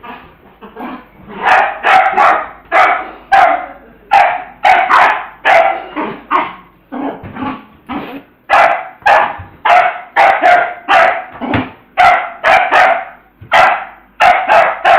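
A dog barking over and over in short, quick barks, about two a second, while playing with a ball.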